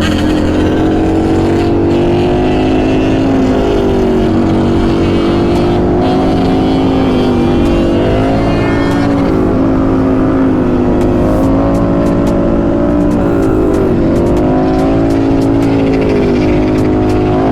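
Motorcycle engine running under way, its revs dipping and climbing several times as the throttle is rolled off and back on.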